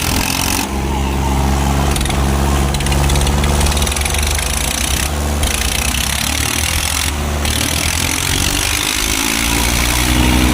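Diesel tractor engines of a Powertrac 455 and a John Deere 5210 running hard under heavy load, chained against each other in a tug-of-war. The engine note holds steady, wavers in pitch in the middle, and firms up again near the end.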